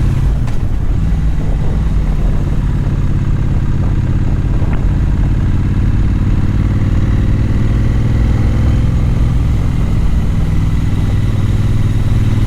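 Motorcycle engine running under way as the bike is ridden, a steady low drone whose pitch rises slowly in the second half as it picks up speed.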